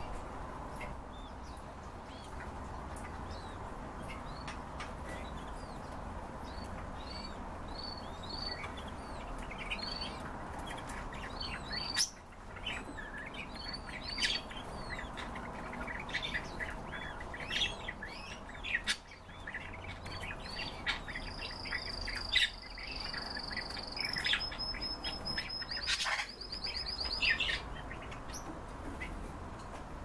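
Cage birds chirping: many short, high calls that grow busier, with a long high trill in the second half and a few sharp clicks.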